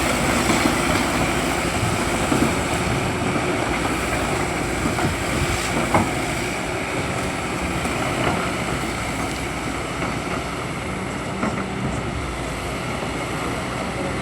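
Hydraulic excavator's diesel engine running steadily, with a few short knocks, around six and eight seconds in.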